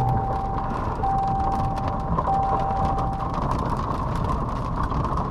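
Steady rain noise, with an electronic warning beep sounding three times, each about a second long with a short gap between, the last stopping about three seconds in.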